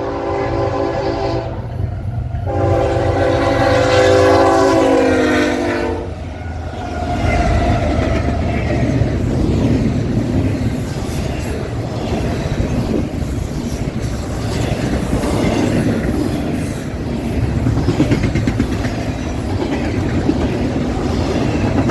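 Diesel freight locomotive's multi-chime air horn blowing two blasts, the second dropping in pitch as the locomotive passes, about six seconds in. Then the train rolls by with a steady rumble and clickety-clack of wheels over rail joints.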